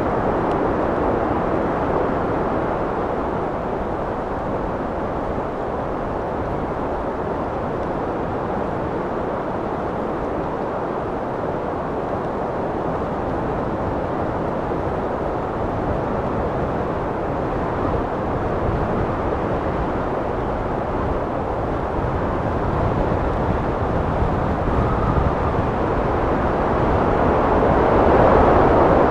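Wind blowing steadily with a low rushing sound, swelling slightly louder near the end.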